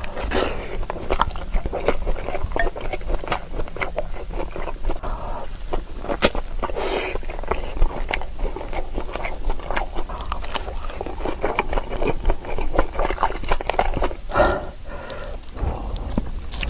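Close-miked eating sounds: a large steamed dumpling bitten into, then chewed with many small clicking and smacking mouth noises.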